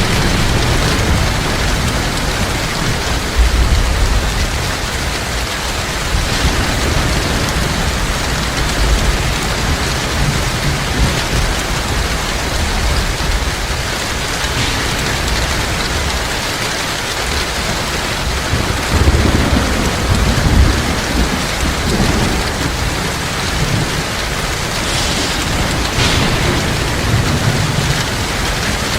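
Heavy rain falling steadily as a dense hiss, with low rolling thunder rumbling underneath, heaviest about two-thirds of the way through.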